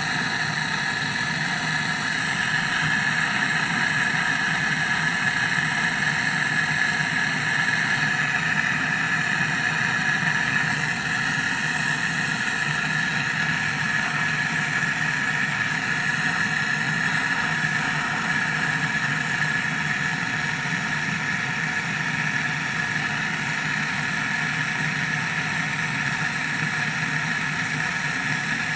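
Steady mechanical hum and whir that runs unchanged throughout, with a low drone and a higher steady whine.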